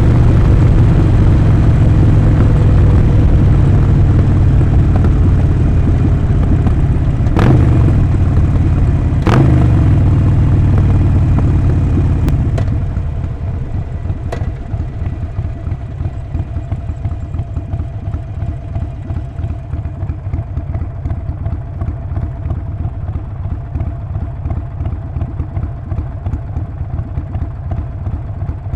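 Harley-Davidson Sportster 48's air-cooled 1200 cc V-twin engine and exhaust, slowing down with falling pitch and two sharp clicks along the way. About twelve seconds in the sound drops to a steady, pulsing, lower-level run like an idle.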